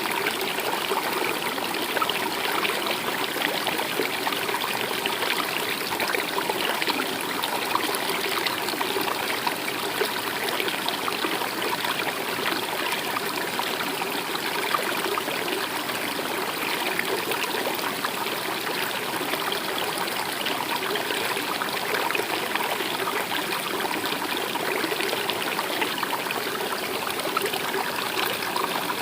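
A stream of water running and trickling steadily, with a constant babble.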